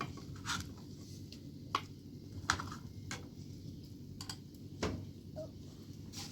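Scattered light clicks and taps, about eight at uneven intervals, over a steady low hum.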